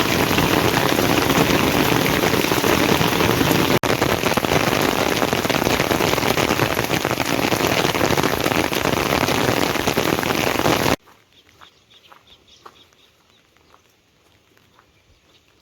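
Heavy rain pouring down in a dense, steady hiss. About eleven seconds in it cuts off suddenly to a much quieter stretch with only faint scattered ticks.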